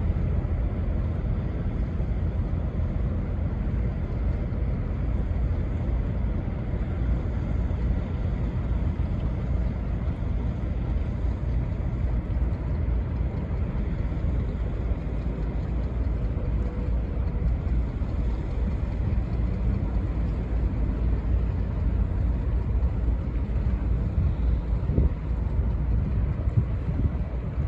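Low, steady rumble of a tugboat's engine towing a cargo ship out of dock, with wind buffeting the microphone throughout.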